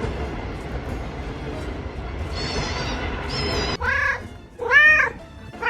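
A cat meowing: three short, loud meows about a second apart in the second half, each rising and falling in pitch, after a couple of faint high-pitched chirps.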